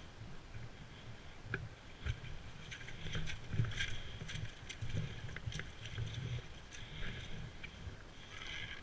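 Footsteps and rustling through forest-floor litter, with irregular soft thuds and twigs and leaves crackling underfoot.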